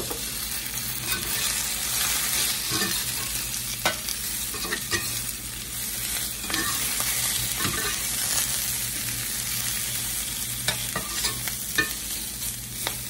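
Sliced potatoes and onions sizzling steadily in olive oil in a cast-iron skillet. A metal spatula scrapes and taps against the pan now and then as they are turned.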